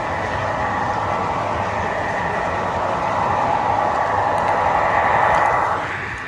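Model train running along the layout track: a steady rolling hum of wheels and motor. It grows louder as the train nears, then falls away quickly just before the end.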